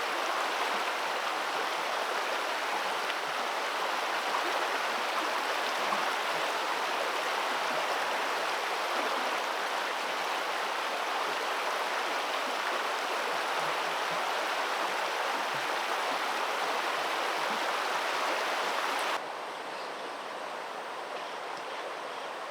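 Steady rush of flowing water. About nineteen seconds in it turns suddenly quieter and duller.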